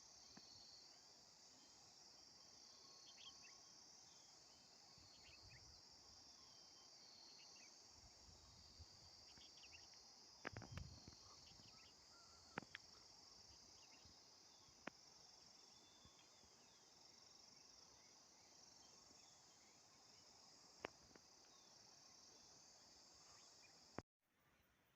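Faint, steady chorus of insects, a continuous high-pitched trilling. A soft thump and a few sharp clicks come around the middle, and the sound cuts off abruptly near the end.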